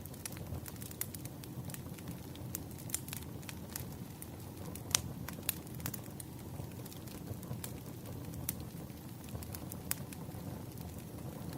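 Wood fire burning: a steady low rumble of flames with irregular sharp crackles and pops, one louder pop about halfway through.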